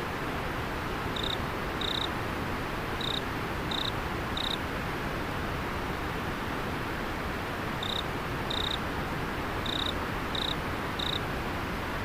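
Steady rush of flowing river water, with a cricket giving short high chirps in two runs of five, the first starting about a second in and the second near the middle.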